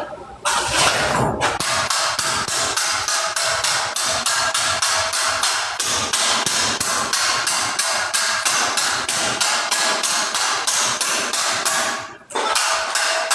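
Hammer striking steadily and quickly, about four blows a second, each blow with a metallic ring; the hammering breaks off briefly near the end, then starts again.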